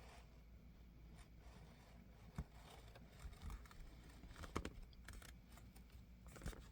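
Faint scratching and scattered clicks of an X-Acto craft knife cutting through a planner cover's rubber backing on a cutting mat, with a few sharper ticks about four and a half seconds in.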